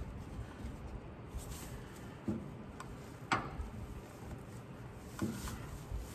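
Scattered faint clicks and knocks of a bolt, nut and hand tool being worked into a tight spot by hand, the loudest about three seconds in, against a quiet background.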